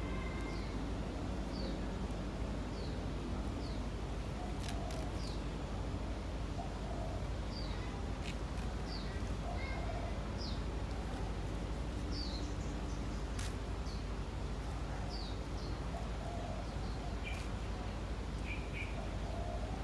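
A small bird calling over and over in short, high, downward-sliding chirps, about one a second, over a steady low background rumble. A few sharp clicks are also heard.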